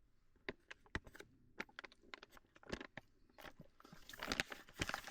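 A spoon stirring and scraping through rehydrated food in a foil freeze-dried meal pouch, with crinkling of the pouch: scattered sharp clicks at first, getting busier near the end.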